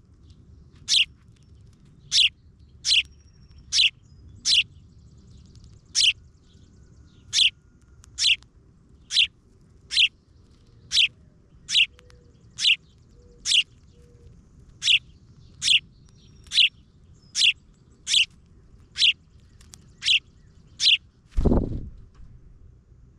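A bird calling over and over with a short, sharp, down-slurred chirp, roughly one a second at an even pace. A single low thump comes near the end.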